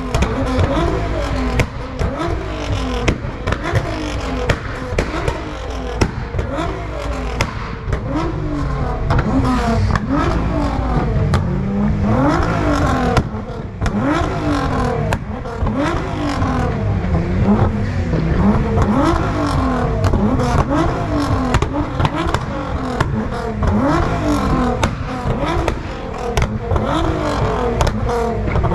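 Modified car engine being revved hard over and over, its pitch rising and falling about once a second, with sharp exhaust pops and cracks between the revs.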